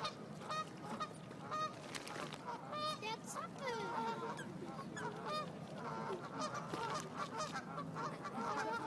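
A flock of birds calling, with many short calls overlapping one another throughout.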